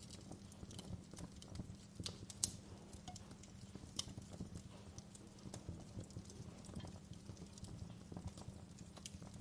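Wood fire burning in a fireplace, crackling with irregular sharp pops and snaps over a low steady rumble of the flames. The loudest pops come about two and a half seconds and four seconds in.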